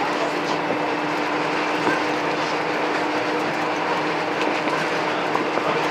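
A Scania N230UD double-decker bus running along, heard from on board: a steady low hum with a constant rumble and small scattered rattles.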